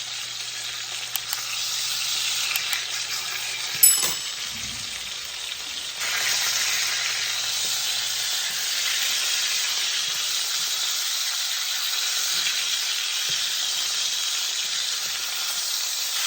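Skin-on chicken thighs sizzling in a pan of hot oil as they brown. A single sharp knock comes about four seconds in, and the sizzle grows louder about six seconds in.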